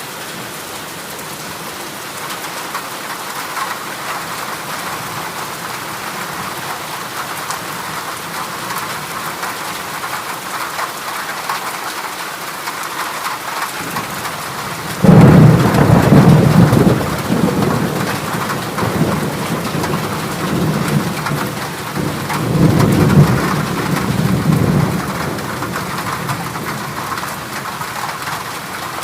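Heavy rain falling steadily on a corrugated zinc roof. About halfway through, a sudden loud rumble of thunder comes in, the loudest sound here, followed a few seconds later by a second, weaker roll.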